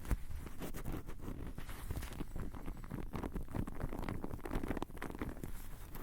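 Close-miked ASMR triggers on a Tascam recorder: a fast, irregular stream of taps, scratches and rustling right at the microphones, with soft low thumps mixed in.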